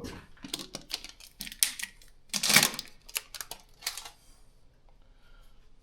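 Quick, irregular clicks and knocks of hard parts being handled during an oil change, with a louder clattering scrape about two and a half seconds in. The sound dies away about four seconds in.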